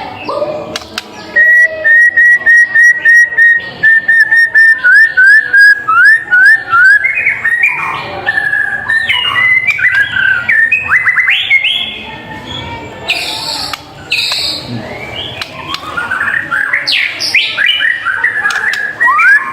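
White-rumped shama singing: a fast run of short repeated whistled notes for several seconds, then a varied stream of whistles, quick rising sweeps and a few harsher notes.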